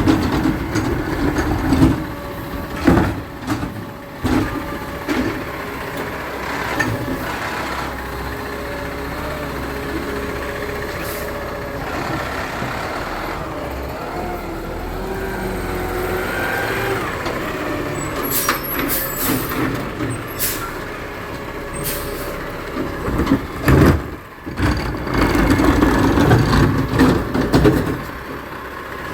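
Garbage truck working: the engine runs steadily with a whining tone through the middle, and air brakes hiss. Several sharp clanks come in quick succession past the middle, with another near the end.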